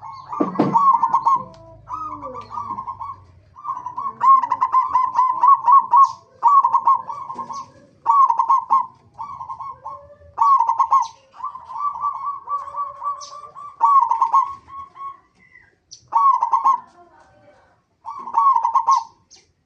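Zebra dove (perkutut) cooing: about ten rapid, stuttering phrases of coos repeated with short pauses between them.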